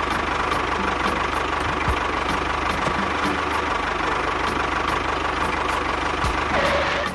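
A small engine running steadily at an even speed, with a faint regular ticking.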